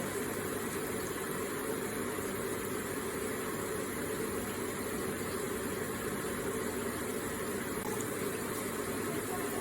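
Electric water feature with water running and splashing steadily and evenly.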